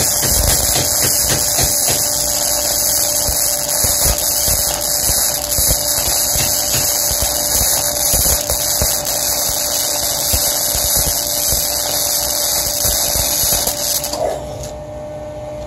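Flux-core arc from a modified 120-volt Harbor Freight wire-feed welder crackling steadily as it lays a bead on thick mild steel plate. The arc cuts off suddenly near the end, leaving a faint hum.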